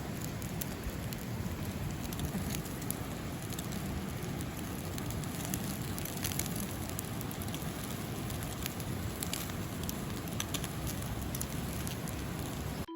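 Wood campfire burning, a steady hiss and rush with scattered sharp crackles and pops, cutting off suddenly at the very end.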